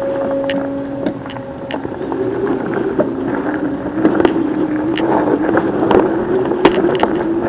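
A steady motor drone that wavers and slowly rises in pitch from about two seconds in, with sharp clicks scattered throughout.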